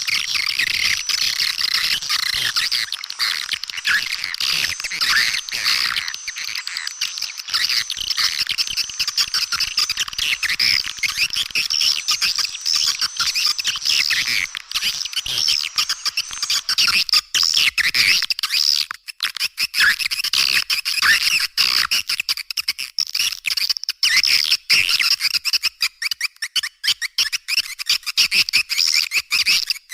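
Swiftlet lure-call recording: a dense, unbroken chorus of many rapid, high twittering chirps, with the low end cut off below about 1 kHz. It is the kind of call played to draw swiftlets into a nesting house.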